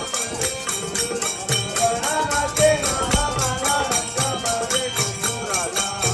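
Bhajan music: a harmonium melody over a steady beat of small hand cymbals and a drum.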